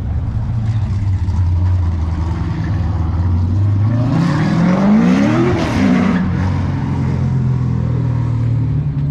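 A car engine idling steadily, then revved once about four seconds in, its pitch climbing for about two seconds and dropping straight back to idle.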